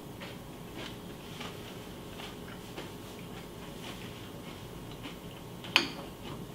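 Spoon and bowl sounds of cereal being eaten: faint, regular small clicks and crunches, then one sharper clink of the spoon against the bowl near the end.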